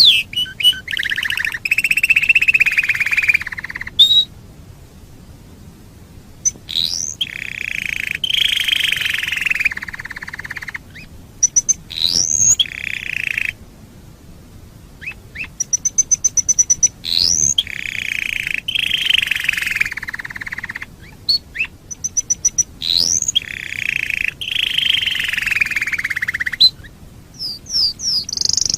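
Domestic canary singing: phrases of rapid repeated chips and longer warbling rolls, each set off by a quick rising whistle, broken by brief pauses.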